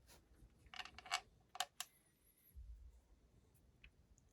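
A few light clicks and taps of small metal engine parts being handled and fitted, two sharper clicks near the middle, then a brief faint low rumble.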